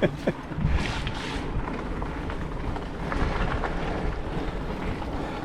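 Wind buffeting the microphone: a steady rumble with a hiss over it.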